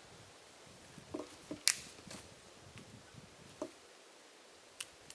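Campfire crackling: scattered, irregular sharp pops and snaps over a faint steady background.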